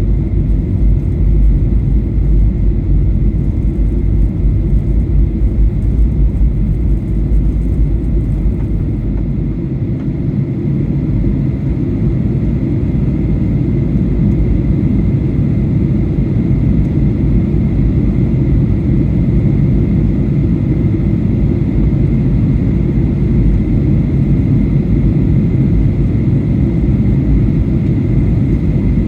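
Steady in-flight cabin noise of a Boeing 737-800 airliner, heard from a window seat: a deep, even rumble of engines and airflow, with a faint steady high tone above it.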